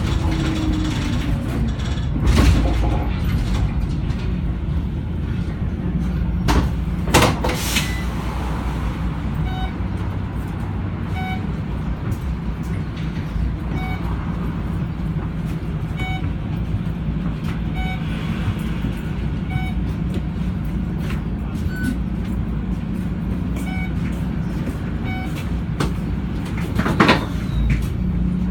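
Scania K94UB bus's diesel engine running steadily, heard on board, with a few sharp knocks and rattles from the bus body. Faint short high beeps repeat through the middle stretch.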